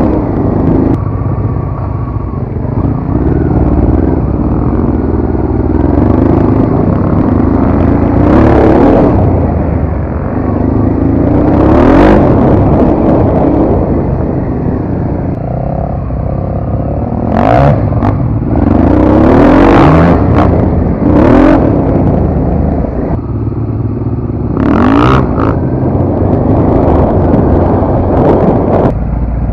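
Off-road motorcycle engine being ridden, revving up and falling back again and again, with several brief rushes of noise.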